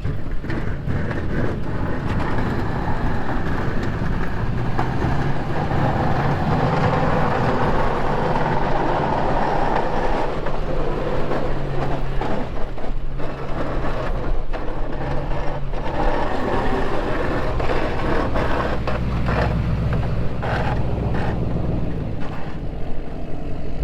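Snowplow truck's engine running under load while its plow blade scrapes snow along the pavement, heard from inside the cab, with a few knocks from the blade.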